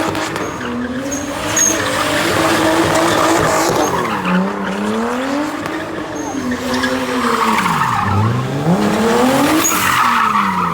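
Car engine revving hard during a drift, its pitch swinging up and down several times as the throttle is worked, over the hiss of tyres squealing and skidding on the tarmac.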